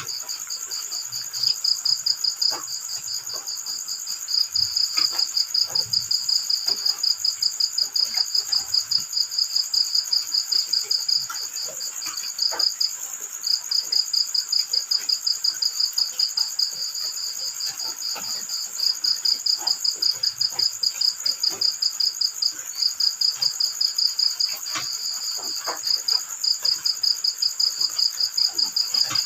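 Crickets chirping: a loud, rapid pulsed chirp in long runs broken by brief pauses, over a steadier, higher insect ring, with faint scattered drips of light rain.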